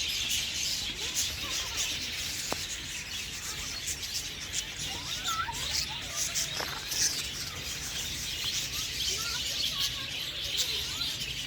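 A dense chorus of many small birds chirping and chattering together without a break.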